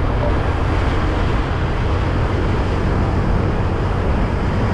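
Steady wind rush and road noise on a GoPro Hero 8 mounted on a moving motorbike, heaviest in the low end.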